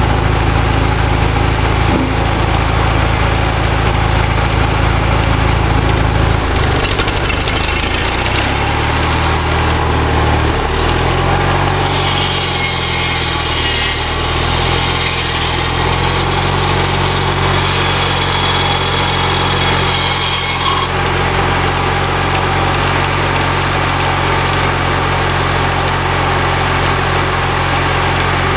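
Lawnmower engine driving a small homemade sawmill, running steadily. Its note steps down between about 6 and 10 seconds in and holds lower, and a higher hiss rises over it for several seconds in the middle.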